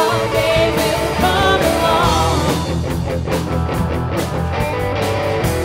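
Rock band playing. For the first couple of seconds a singer holds a drawn-out, wavering line over bass and electric guitar. Then the vocal drops out and the band plays on with a steady drum beat and electric guitar.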